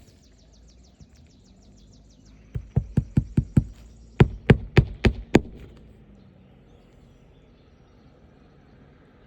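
Hammer driving roofing nails into a replacement asphalt shingle: a run of about six quick blows, a short pause, then five louder blows.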